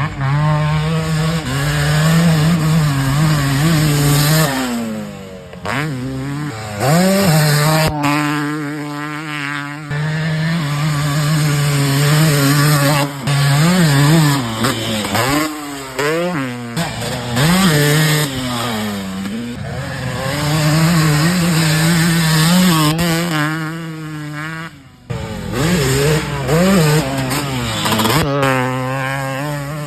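Savannah MX 250 two-stroke dirt bike engine revving hard, its pitch repeatedly climbing, holding high for several seconds at a time, then dropping back and climbing again.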